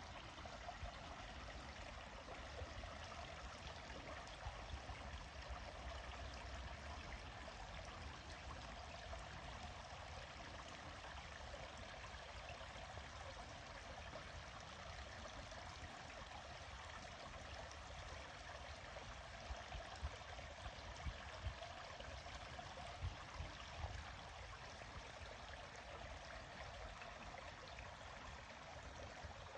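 Small forest stream trickling steadily, a faint even rush of running water. A few soft low bumps come about two-thirds of the way through.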